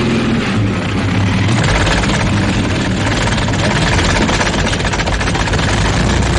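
Early-1900s racing car engine running loud and steady, a dense low rumble with no change in pace.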